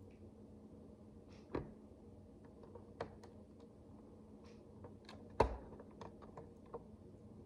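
Micro building bricks being handled and snapped together: scattered small clicks and taps, the loudest about a second and a half in and again past five seconds, over a faint steady hum.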